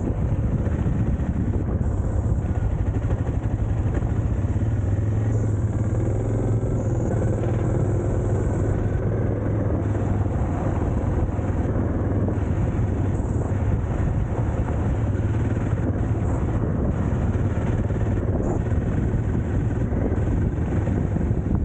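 Adventure motorcycle engine running steadily while riding, a constant low drone with road noise.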